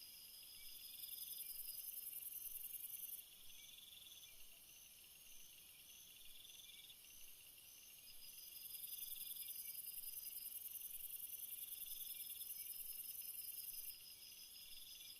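A forest chorus of insects trilling in several overlapping, steady, evenly pulsed high-pitched trains. The highest, shrillest trill swells about a second in and stops near 3 s, then returns from about 8 s until near the end.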